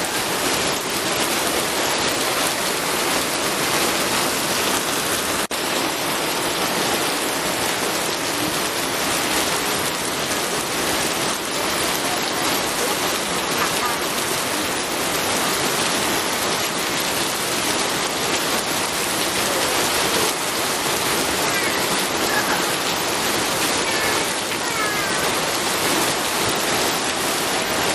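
Steady rain falling, an even hiss of many drops. There is a brief dropout about five seconds in.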